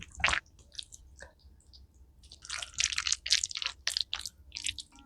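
A person chewing food: scattered wet mouth clicks, then a dense run of chewing clicks from about two to four seconds in.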